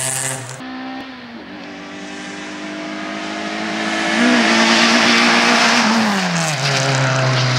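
Suzuki Swift rally car's engine under way, heard onboard at full rally pace. The revs drop about half a second in, hold steady, and drop again around six seconds in. A loud rushing of tyre and road noise swells in the middle.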